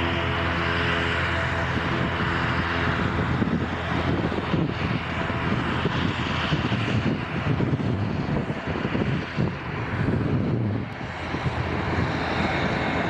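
Jet airliner on landing approach passing close by: a steady engine hum with several held tones, turning into a rough, irregular rumble from about four seconds in that eases near the end.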